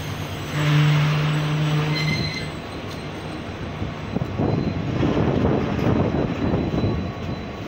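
Train running on the rails, its wheels clattering irregularly, with a loud, low, steady horn blast lasting about a second and a half near the start.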